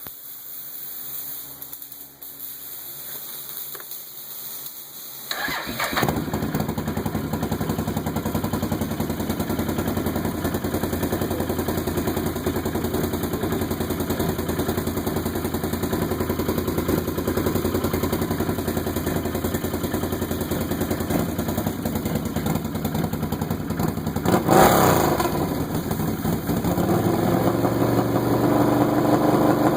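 Can-Am Renegade ATV's V-twin engine, breathing through an HMF slip-on exhaust with a custom snorkel end cap, starts about five seconds in and idles steadily. Near the end the throttle is blipped once, and the engine then settles at a slightly faster idle.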